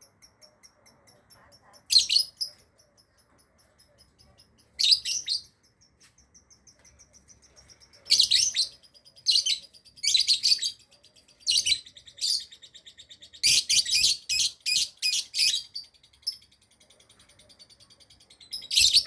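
Lovebird chattering: a fast string of faint high chirps, broken by loud, shrill squawking calls, twice at first and then in dense runs of sharp calls through the middle.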